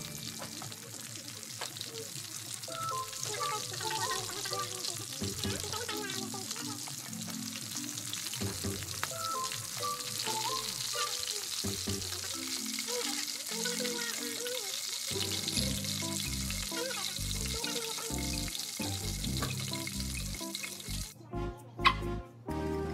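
Shrimp frying in hot oil and honey-garlic sauce in a pan, a steady sizzle, under background music; the sizzle stops near the end.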